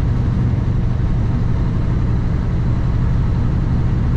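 Steady low drone of a Kenworth W900 truck's diesel engine, running evenly with no change in pitch.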